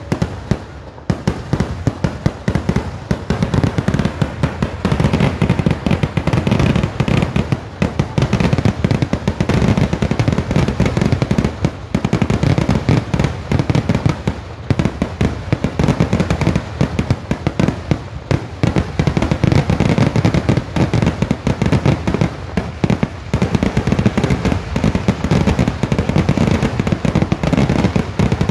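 Kerala temple-festival fireworks (vedikettu) going off in a dense, continuous barrage of rapid explosions and crackling, with a brief lull about a second in.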